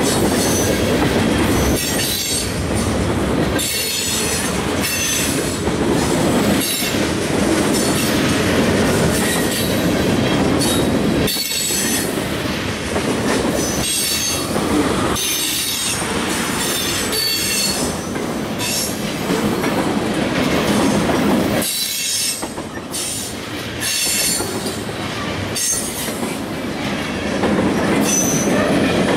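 CSX freight train's tank cars and covered hopper cars rolling past at close range: steel wheels running on the rails with a steady noise and occasional clacks, and a high-pitched wheel squeal that comes and goes.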